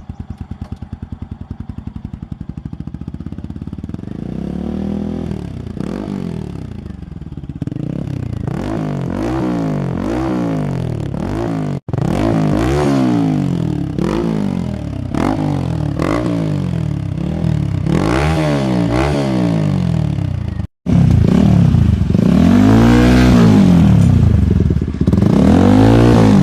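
TVS Apache RTR 200 4V single-cylinder engine running through an aftermarket SC Project-style exhaust. It idles at first, then is blipped again and again, revving up and dropping back about once a second, louder near the end. The sound cuts out briefly twice.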